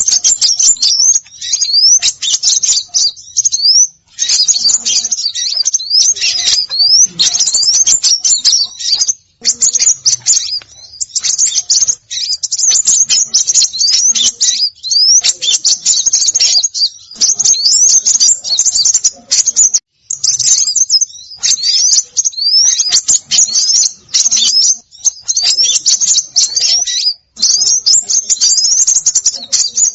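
Dense, loud chattering of small songbirds: rapid high chirps and quick rising whistled sweeps, in runs broken by brief pauses. It is a bird-lure recording meant to draw in small birds such as sunbirds, spiderhunters and minivets.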